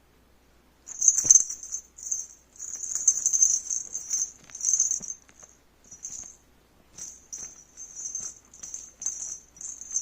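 A small bell jingling in short, irregular shakes as a kitten plays, with a few light knocks among them.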